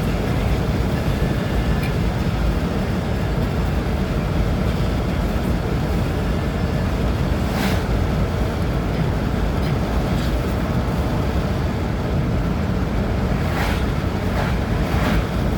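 Steady low road noise inside a moving truck's cabin: engine and tyre rumble at driving speed, with a few faint brief ticks.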